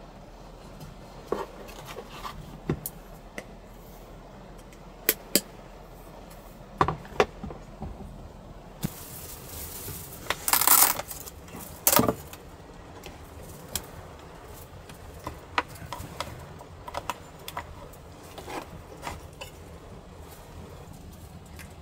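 Small clicks, clinks and knocks of objects being handled at close range, scattered and irregular, over a faint low steady background. About ten seconds in comes a brief louder rustle, followed by a sharp knock.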